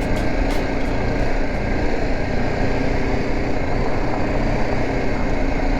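BMW G 310 GS motorcycle under way, its single-cylinder engine running at a steady pace with road noise; a few light ticks in the first second or so.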